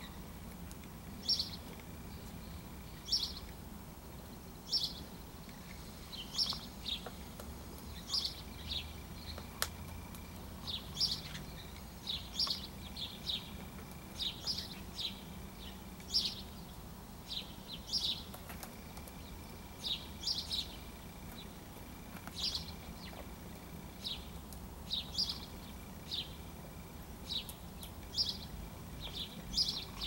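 A bird chirping: short, high chirps repeated about once or twice a second, over faint low background noise.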